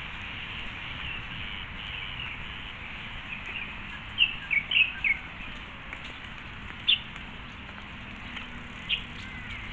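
Small birds chirping in the trees: a quick run of short, high chirps about four seconds in, then single chirps every couple of seconds, over a steady low background hum.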